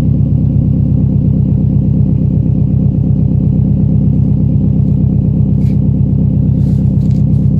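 Subaru Impreza WRX STI's 2.5-litre turbocharged flat-four idling steadily through a Blitz Nur Spec R cat-back exhaust, with a deep, even rumble.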